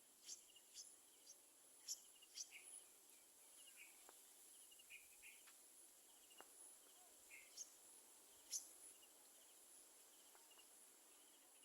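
Faint outdoor insect chorus, a steady high cricket-like buzz, with scattered short, sharp high chirps: several in the first three seconds and a couple more later on.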